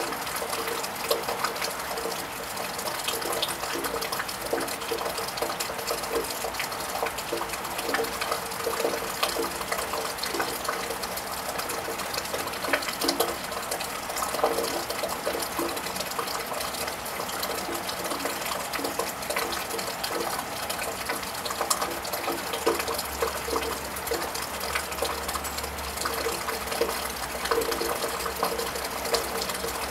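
Steady rain falling on a wet tiled roof, a continuous hiss with many irregular drips and drops pattering close by. A low rumble comes in about two-thirds of the way through.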